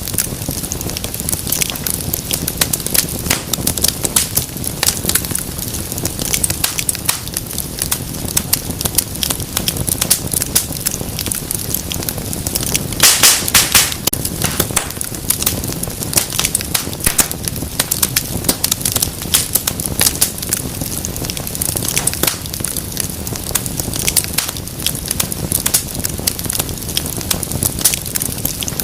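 Fire in a fireplace crackling and popping steadily, with a quick flurry of louder pops about halfway through.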